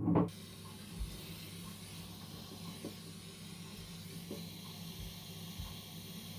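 Small handheld gas torch flame hissing steadily, starting just after a short louder burst at the start, as it heats solder-seal heat-shrink connectors on copper wires.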